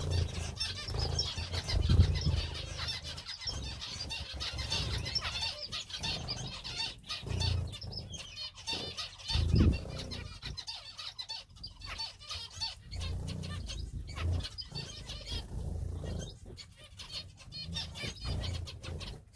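A flock of small aviary finches and canaries calling in a dense, continuous chatter of short chirps, with wings fluttering. A few low bumps, the loudest about two seconds in and again near the middle.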